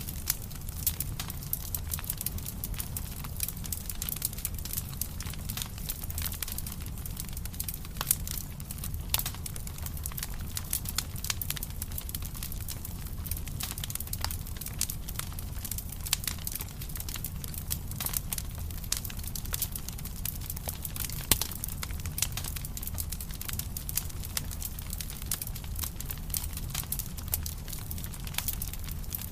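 Wood fire crackling and popping steadily, with dense irregular snaps, now and then a louder pop, over a low rumble of the flames.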